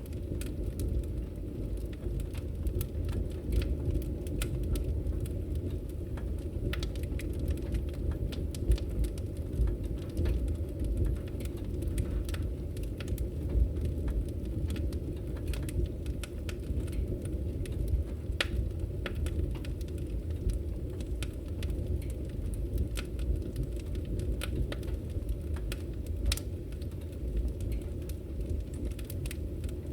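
Firewood burning, crackling with many irregular sharp snaps and pops over a steady low sound of the fire.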